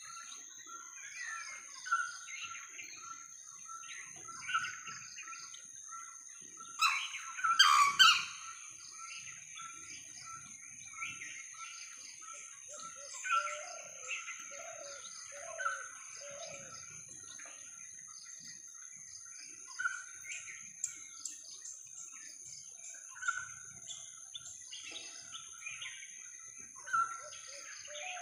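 Birds chirping and calling over a steady high-pitched whine, with one loud harsh call about seven to eight seconds in, and runs of low repeated notes around the middle and again near the end.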